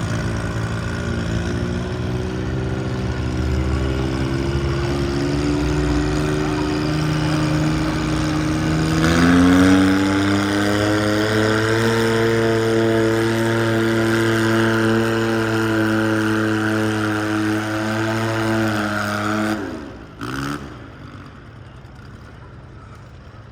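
Garden pulling tractor's engine running hard under load, its revs climbing slowly, then jumping higher about nine seconds in and holding there. It cuts off suddenly near the end, leaving a much quieter background.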